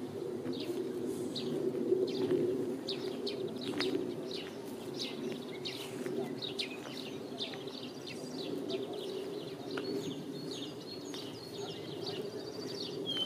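Small birds chirping and twittering in many short calls, busier in the second half, over a steady low hum.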